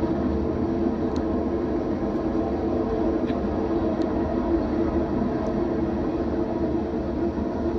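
Train rolling past on the tracks: a steady rumble of wheels and cars, with a few faint sharp clicks.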